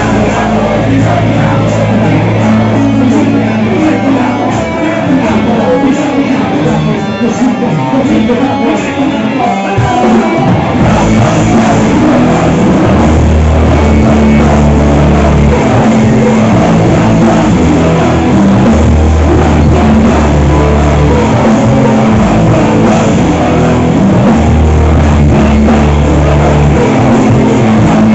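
Live heavy rock band playing: distorted electric guitars, bass and drum kit. The bass and low end drop away for a few seconds, then the full band comes back in hard about ten seconds in.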